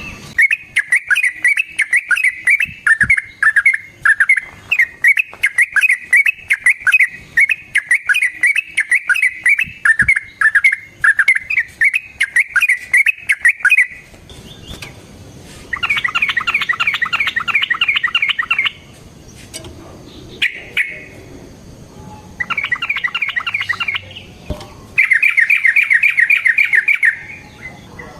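Yellow-vented bulbul (trucukan) singing a long, fast run of repeated notes for about the first half. Then come three bursts of rapid chattering, with a single short note between the first two.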